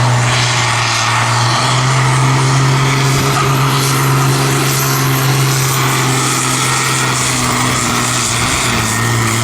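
Competition pulling tractor's engine running flat out under load, a loud steady drone at one unchanging pitch.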